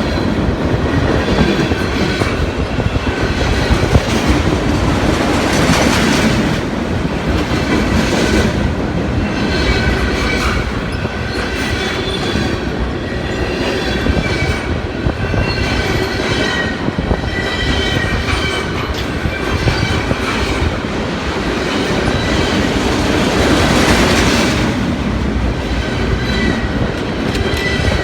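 A long military freight train passing at speed: a steady rumble of wheels on the rails, clacking over the rail joints, with faint high wheel squeal.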